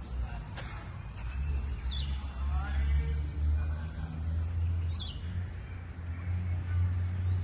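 Small birds chirping in short calls, with a couple of falling chirps and a quick run of chirps, over a steady low rumble.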